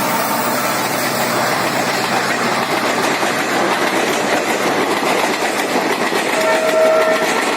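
Coaches of an express train rushing past at speed, a loud steady rush of wheels on rail with clattering over the track. Near the end a faint horn sounds briefly.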